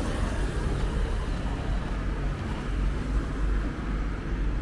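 Road traffic noise on a city street: a steady rumble with no single vehicle standing out.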